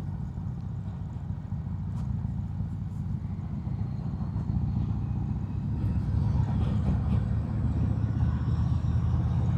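Harley-Davidson Road King Special's Milwaukee-Eight V-twin engine running while the motorcycle is ridden: a steady low rumble that slowly grows louder.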